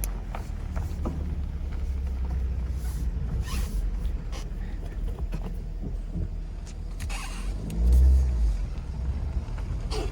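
A car heard from inside the cabin: a steady low engine and road rumble, with a few short hissy rushes and a brief louder low surge about eight seconds in.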